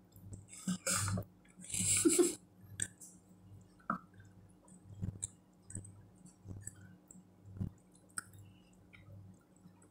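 Close-up chewing of a mouthful of vegetables, with two louder bursts of mouth noise in the first two and a half seconds and then scattered small clicks.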